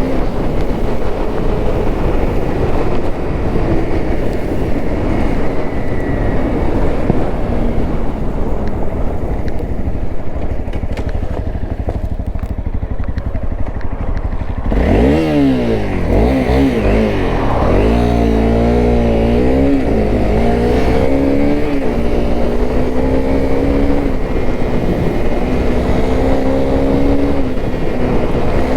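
Honda CRF250L's single-cylinder four-stroke engine under way, mixed with a steady rush of wind and road noise. About halfway through the engine comes to the fore, its pitch dropping and then rising and falling several times before holding steady.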